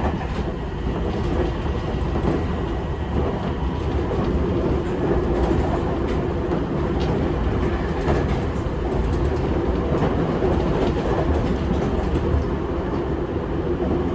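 Seibu 6000 series electric train running along the track, heard from inside the carriage: a steady low rumble of wheels and running gear, with a few light rail-joint clicks.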